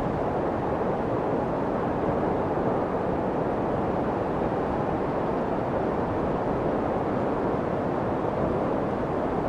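Steady white noise for soothing a baby to sleep: an unbroken, even rushing hiss weighted toward the low and middle, with little high treble, unchanging throughout.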